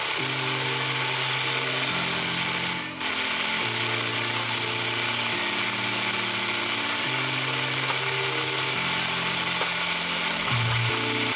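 Parkside Performance PDSSAP 20-Li A1 cordless impact driver running, its motor pitch shifting up and down in steps, with a brief break about three seconds in.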